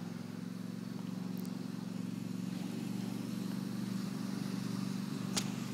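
Tractor engine running steadily, growing slowly louder as it draws nearer. A single sharp click near the end.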